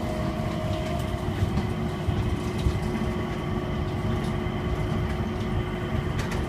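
Cabin of an automated airport people-mover train running at speed between terminals: a steady rumble with faint steady whining tones and occasional light clicks.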